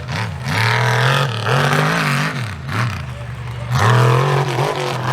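Mega mud truck's engine revving hard, its pitch rising and falling again and again as the throttle is worked.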